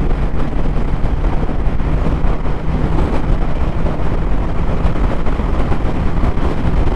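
Motorcycle riding at a steady road speed: wind rushing over the helmet-mounted microphone, with the engine's steady hum underneath.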